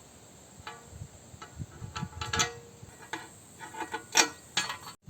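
Mower blade bolts being tightened with hand tools: a string of irregular metallic clicks and clinks, one or two a second.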